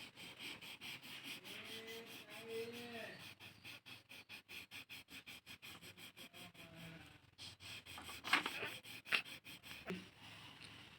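Colouring on paper: a purple colour rubbed quickly back and forth, a scratchy stroke about seven times a second. A few louder sharp knocks come about eight to nine seconds in.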